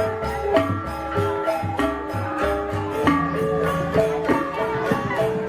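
Gamelan music: metallophones ringing out a melody of held notes over a steady low drumbeat.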